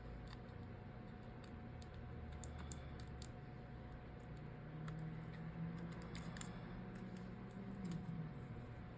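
Faint, irregular light clicks and taps of small phone parts and tools being handled, over a low steady hum.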